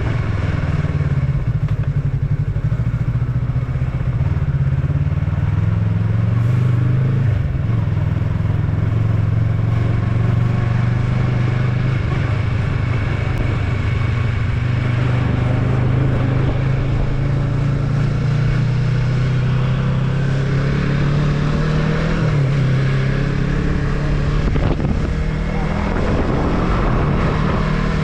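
Yamaha MT-03's parallel-twin engine running under way at fairly steady revs, its note dipping briefly twice. Wind noise on the microphone rises near the end.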